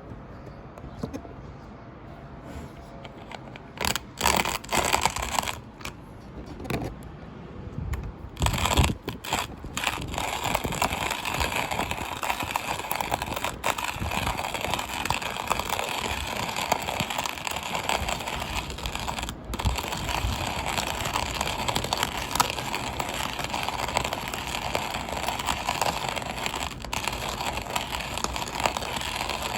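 Coffee grinder being handled and cleaned: irregular knocks and scrapes of its parts, then, from about ten seconds in, a continuous gritty scraping.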